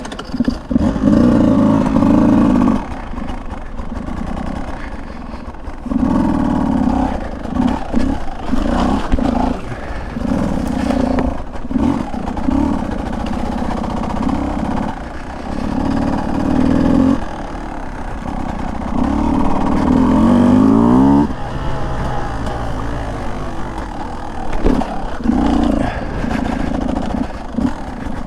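Single-cylinder two-stroke engine of a Beta 200 dirt bike being ridden on a trail, the throttle opened and closed in repeated short bursts. About twenty seconds in, one longer rev climbs in pitch and then cuts off sharply.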